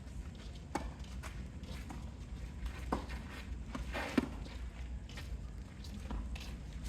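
A few scattered light knocks and taps, the sharpest a little after four seconds in, over a steady low rumble.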